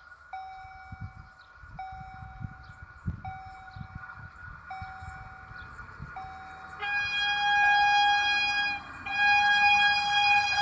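A railway level-crossing warning chime repeats a steady electronic tone about every second and a half. About seven seconds in, a train horn sounds two long, loud blasts in a chord of several tones.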